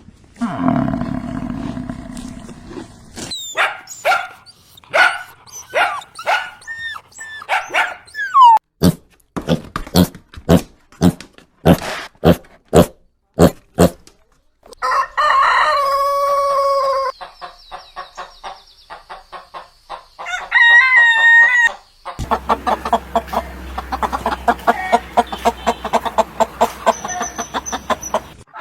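Chickens clucking in quick runs of short calls, with a rooster crowing once, a held call about halfway through.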